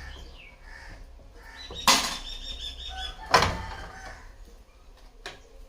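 Two sharp clacks about a second and a half apart, the first with a short ring after it, then a faint click near the end: parts of a washing machine being knocked and worked loose as a component is removed.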